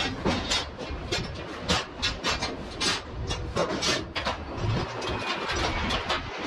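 Steel container lashing gear being handled during delashing: irregular clanks, knocks and rattles of lashing rods and turnbuckles, several a second, over a low steady rumble.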